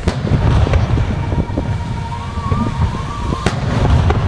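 Fireworks show: aerial shells bursting with a sharp bang at the start and another about three and a half seconds in, over continuous low booming and rumble from further bursts. A wavering high tone runs through the middle.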